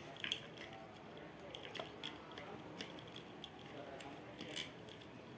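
Faint scattered clicks and taps of hands handling a wooden toy rocket launcher as its rubber bands are pulled back down to the bottom.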